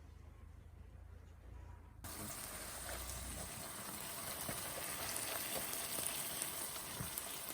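Food sizzling and crackling in a hot pan. It starts suddenly about two seconds in, after near quiet.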